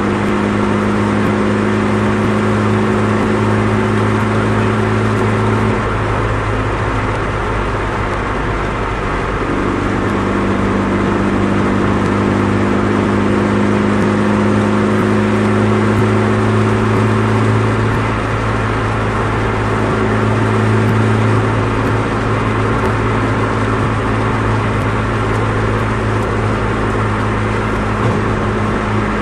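Nissan Micra 1.3 with a custom exhaust running at a steady engine speed, its exhaust droning: a low steady hum with a strong, higher drone tone above it. The higher drone tone fades out about six seconds in and comes back about three seconds later. This drone is the annoying resonance the owner means to cure with a J-pipe.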